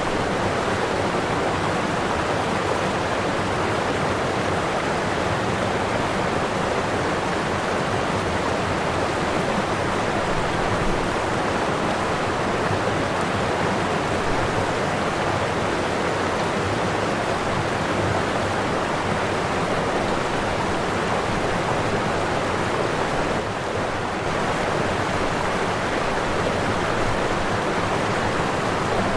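Waterfall: a steady, continuous rush of falling water, briefly a little softer about two-thirds of the way through.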